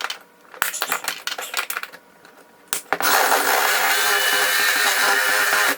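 A few metallic clicks and clinks of tools being handled, then a battery-powered power tool runs at a steady speed for about three seconds while removing a bolt.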